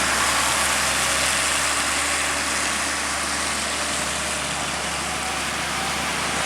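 A vehicle engine running at idle under a steady hiss.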